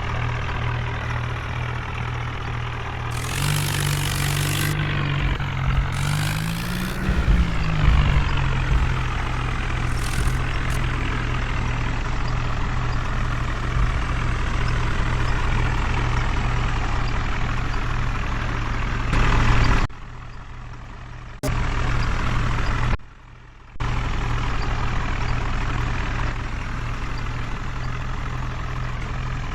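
A heavy vehicle engine runs steadily, revs up and back down about seven seconds in, and has two loud hissing bursts around three and six seconds in. The sound turns much quieter twice for a second or so around twenty seconds in.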